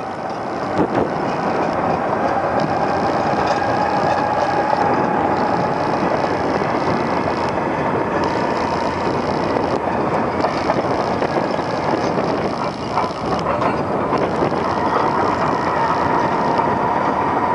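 HBXG SD8N crawler bulldozer with a Cummins diesel engine, running steadily, with a thin whine above the engine noise that grows stronger near the end.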